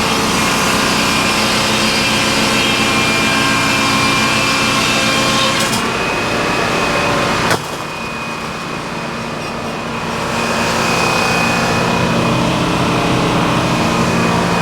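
Sawmill engine running steadily. About halfway through a sharp click comes and the sound drops for a couple of seconds, then rises back to its earlier level.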